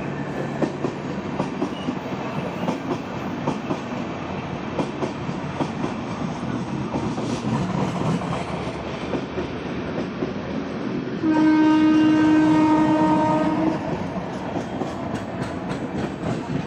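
Indian Railways express train running, with wheels clicking over rail joints. About eleven seconds in, a train horn sounds once, a steady tone held for a little over two seconds.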